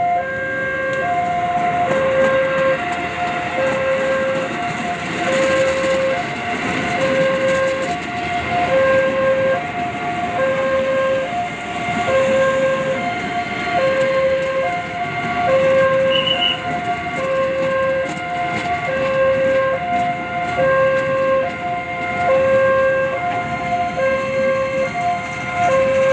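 Level-crossing warning alarm repeating an alternating high-low two-tone signal while a train passes, with a steady rushing noise from the train.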